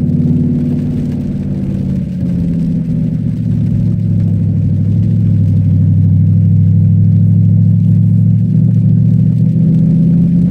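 Cadillac STS-V's supercharged V8 running under steady load, a low engine drone heard from inside the car, pulling a little harder from about two and a half seconds in.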